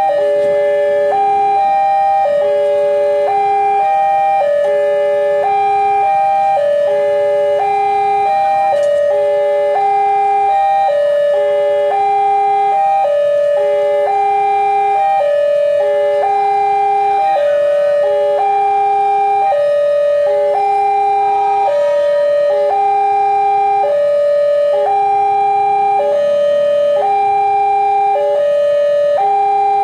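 Electronic railway level-crossing warning alarm: a pattern of three pure tones stepping from note to note, repeating about every two seconds without a break.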